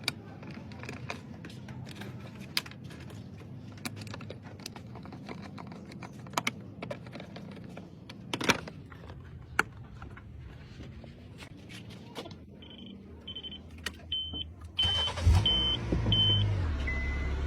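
Scattered clicks and handling noises over a low hum, then a run of five short high beeps. About fifteen seconds in, the car's engine starts and keeps running at a steady idle.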